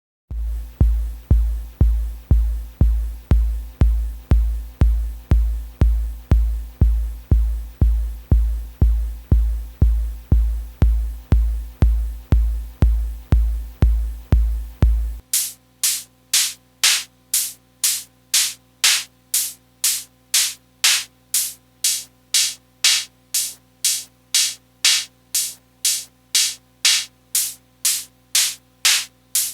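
nanoloop synthesizer app playing a looped drum-machine pattern. For the first half it plays low bass-drum-like hits, each with a sharp click at its attack, about two a second. About halfway through these stop, and bright hissy metallic-noise hits take over at about the same rate.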